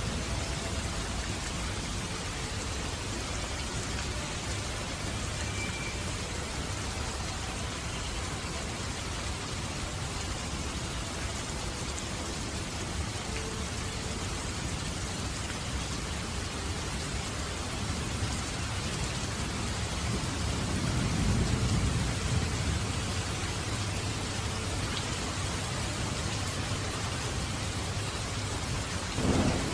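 Steady rain falling, with a low roll of thunder swelling and fading around two-thirds of the way through and a sharper, shorter crack of thunder just before the end.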